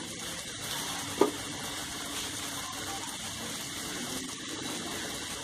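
Onion and spice masala sizzling steadily in oil in a frying pan as crumbled boiled potato drops in, with one brief sharp sound about a second in.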